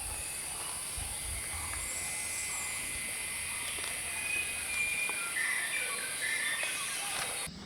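Forest ambience: a steady high-pitched insect drone with faint bird whistles, the drone cutting off suddenly near the end.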